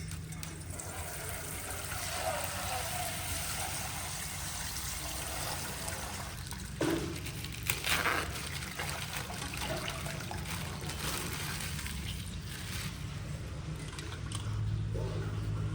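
Coloured water trickling and sloshing out of a burst plastic pack, with two sharp louder sounds about seven and eight seconds in.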